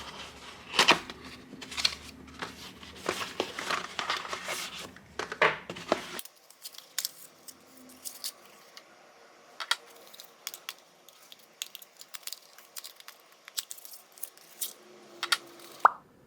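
Close-up rustling and crinkling, like paper or packaging being handled, with many small clicks. About six seconds in it cuts to a quieter stretch of sparse light clicks and taps.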